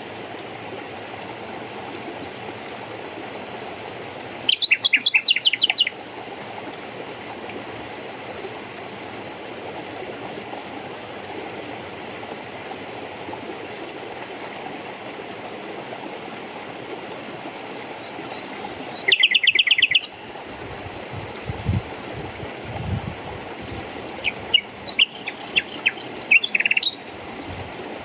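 Steady rush of running water with a songbird singing three phrases over it, about 3, 18 and 24 seconds in. Each phrase starts with a few high notes sliding down, then breaks into a quick run of repeated notes.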